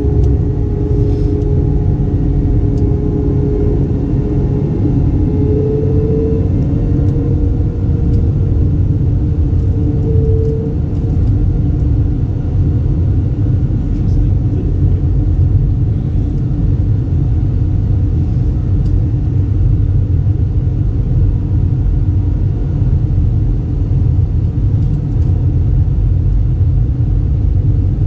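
Airbus A320 cabin noise in flight: a steady, loud low rumble of the engines and the air rushing past.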